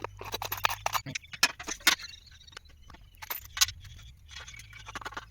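Metal parts and tools of a power weeder clinking and knocking in quick irregular clicks as it is assembled and bolted up.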